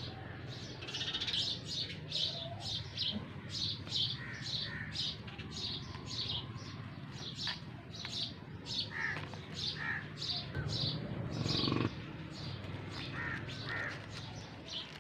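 Small birds chirping over and over, short high calls about twice a second with a few lower calls among them. About two-thirds of the way through there is a louder burst of rustling.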